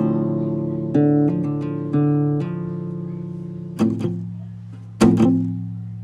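Acoustic guitar music: strummed chords, a new one roughly every second with gaps, each left ringing and fading.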